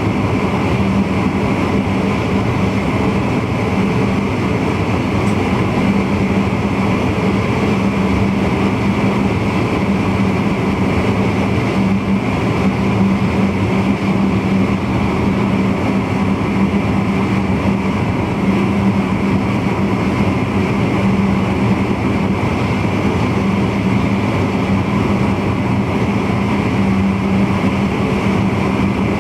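VIRM double-deck electric intercity train running steadily, heard from the driver's cab: an even rolling rumble with a steady hum.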